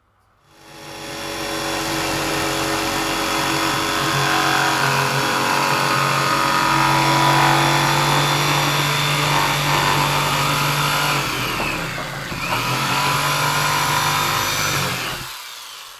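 Electric power tool cutting into scrap plywood along a traced circle, its motor running steadily for about fifteen seconds. About twelve seconds in the pitch drops and climbs back as the motor bogs under load, and the tool stops shortly before the end.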